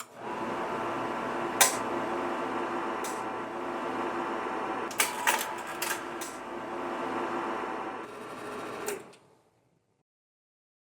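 Slide projector running with a steady fan hum and several sharp mechanical clicks of the slide-change mechanism. It shuts off about nine seconds in.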